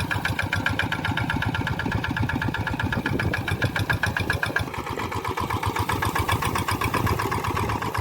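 Tractor engine running steadily with an even, rapid firing beat; its tone shifts about halfway through.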